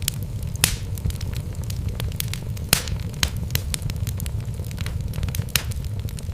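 Wood fire burning in a fireplace: a steady low rumble of flames with irregular crackles and pops from the burning logs, two louder pops about 0.7 and 2.7 seconds in.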